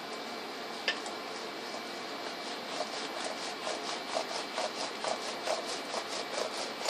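Hand work on a laptop during a hinge repair: a single sharp click, then a run of short scraping or rubbing strokes, about four a second, over a steady hiss.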